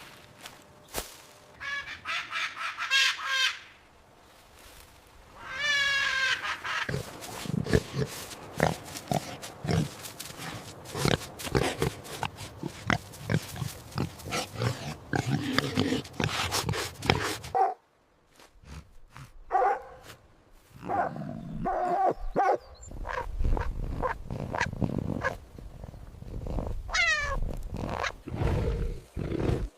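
Pigs grunting in rapid, dense runs, broken by several high-pitched squeals, one of which slides steeply down in pitch near the end.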